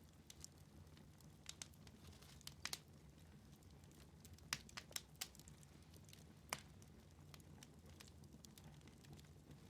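Wood fire in a fireplace crackling faintly: scattered sharp pops and snaps, several close together around the middle, over a low steady rumble.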